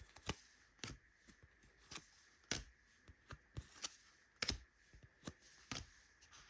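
Trading cards being flipped through one at a time in the hands, each card giving a short, sharp flick, about two or three a second at an uneven pace.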